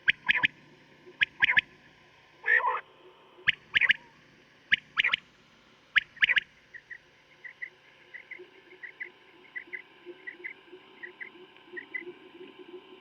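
Common quail (batair) calling: short sharp call notes, mostly in pairs, about once a second, then from about halfway through a quick, faint run of soft notes. A low steady hum lies underneath.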